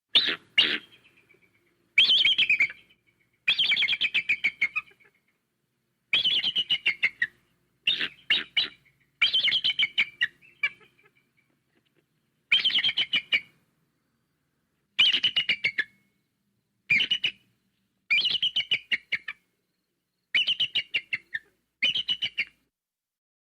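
Bald eagle calling: about a dozen bouts of rapid, high-pitched piping chatter, each lasting about a second, separated by short silences.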